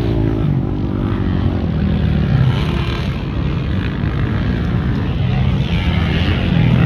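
Motocross dirt bike engines running, a steady mechanical drone.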